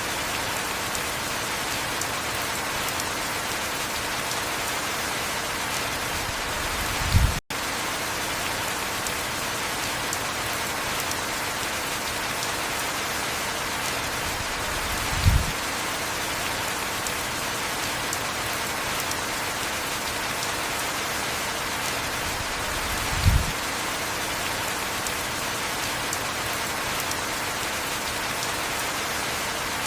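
Heavy steady rain, an even hiss of rainfall on surfaces. A short low thump sounds three times, about every eight seconds. Just after the first thump the sound cuts out for an instant.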